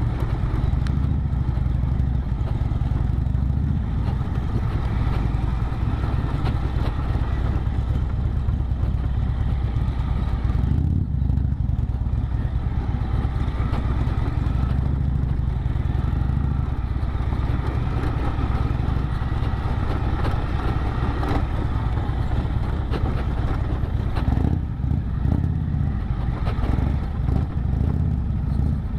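Yamaha XT 600E's single-cylinder four-stroke engine running on the move, a steady even note with road and wind noise, easing briefly about eleven seconds in.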